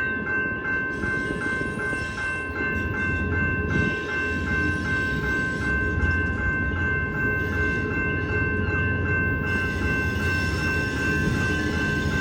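Train rolling past, its low rumble growing heavier a few seconds in, over a steady ringing tone that pulses about three times a second.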